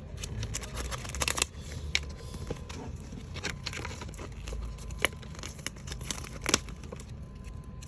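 Diorama sheets being handled and torn: irregular crinkling, rustling and sharp clicks.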